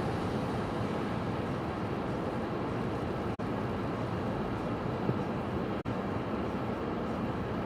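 Steady roar of storm wind and rough sea at a seawall, with wind buffeting the microphone. The sound cuts out for an instant twice.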